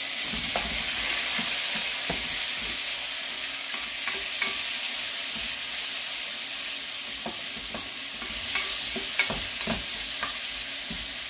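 Garlic, onion and tomato sizzling in hot oil in a stainless steel frying pan as the sauté base is stirred, with a spatula scraping and tapping against the pan now and then.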